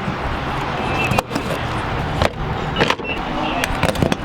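A Nissan 370Z being driven: steady engine and road noise, with scattered sharp knocks.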